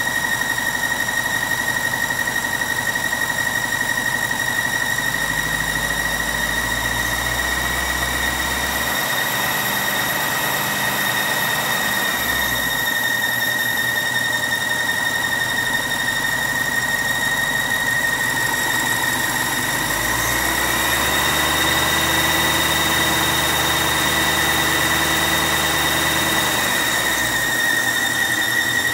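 2006 BMW 750i's 4.8-litre V8 running, with a loud, continuous high-pitched squeal: one steady tone with overtones whose pitch holds while the engine note shifts twice. The owner has ruled out the drive belt as the cause of the squeal.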